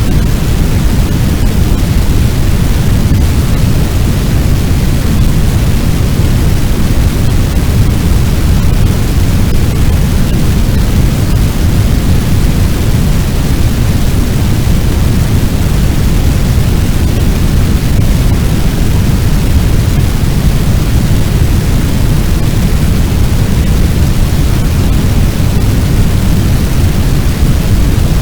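Fire sound effect: a loud, steady rush of noise, strongest in the low end, with no separate crackles or pops.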